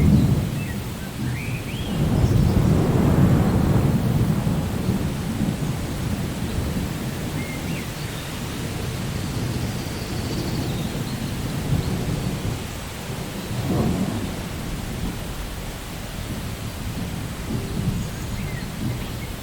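Steady rain with rolling thunder: a long low rumble swells about two seconds in and slowly dies away, and a shorter rumble comes near the end.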